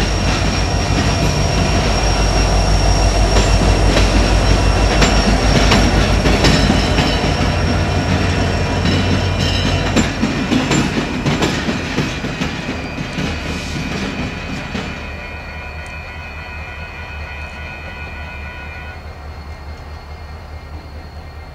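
Loaded grain hopper cars rumbling past with wheels clattering over the rail crossing diamonds and a high steady wheel squeal. About ten seconds in, the rear distributed-power locomotive, an EMD SD70ACe with a 16-cylinder two-stroke diesel, passes close, and the sound fades to a lower rumble as the train moves away.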